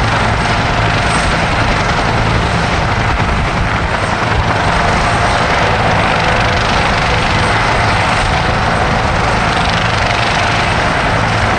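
Helicopter turbine engines and rotors running loudly and steadily, with a thin, steady high whine over the rotor noise.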